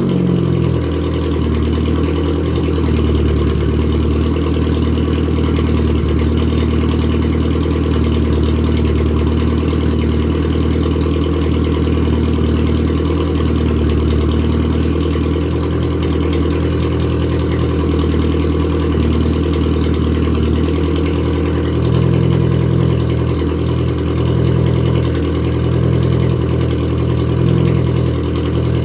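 Datsun 1000's 988 cc A10 four-cylinder engine idling through a straight-piped exhaust while warming up after a cold start. The idle is steady, and its low exhaust note grows stronger and less even about two-thirds of the way through.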